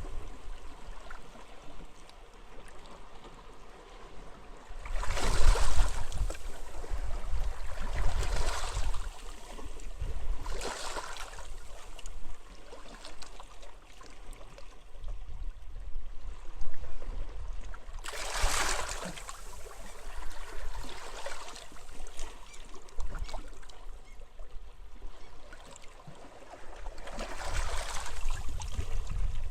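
Small waves breaking and washing up a beach in separate surges every few seconds, with low wind rumble on the microphone.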